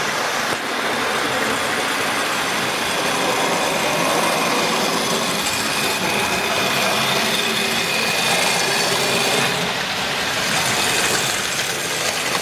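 Model railway class N2 tank locomotive running with a heavy goods train: a steady whirr from its electric motor, with the wagons' wheels rattling over the rail track. It runs smoothly but a little noisily.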